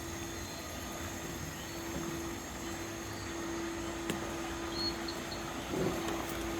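Evening jungle ambience: a steady low hum runs throughout under a thin, steady high-pitched insect drone, with a couple of short high chirps about five seconds in.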